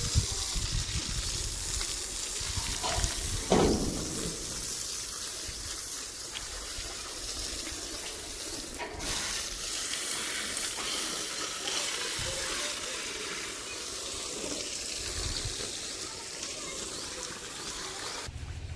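A washing spray jet hissing steadily against a JCB backhoe loader as grease is cleaned off it, with a short louder spurt about three and a half seconds in.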